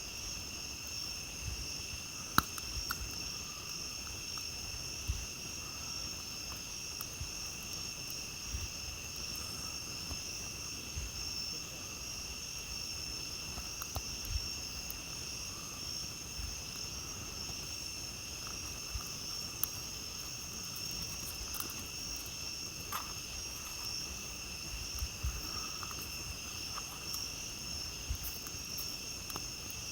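A night insect chorus trilling steadily at two high pitches, with a campfire crackling and popping in sharp snaps every few seconds.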